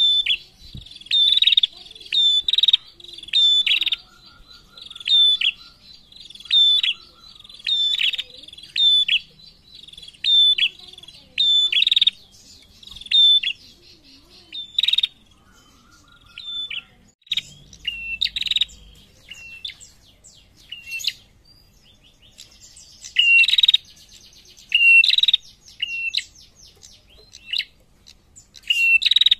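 Female prenjak calling: a run of sharp, high chirps about once a second, a pause around the middle, then quicker chirps toward the end. A faint buzzy trill sounds underneath twice.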